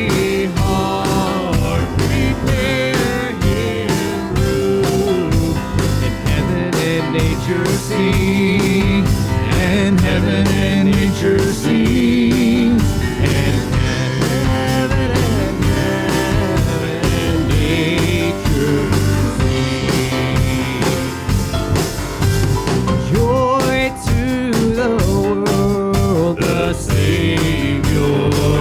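Church worship band playing a praise song, with singing over a steady drum beat.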